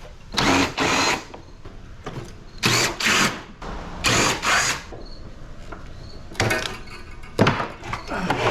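Power drill run in short bursts, about eight or nine runs, mostly in pairs, backing screws out of an air conditioner's sheet-metal casing.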